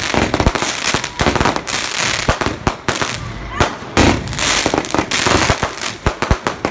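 Fireworks going off: a dense run of bangs and crackling, with several louder bangs among them.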